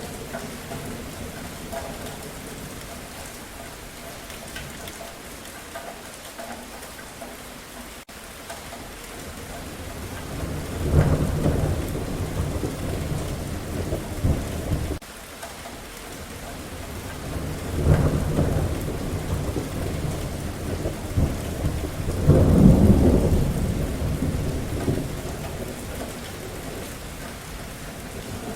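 Steady rain with three rolls of thunder, about a third, halfway and three-quarters of the way through. The first roll cuts off abruptly, and the last is the loudest.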